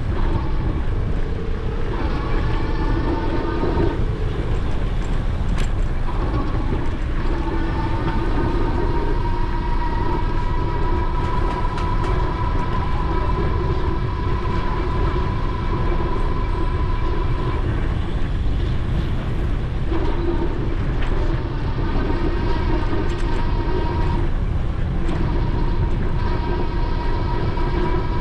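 Electric bike motor whining steadily as it drives the bike, the pitch shifting a little with speed and dropping out twice, over heavy wind rumble on the microphone.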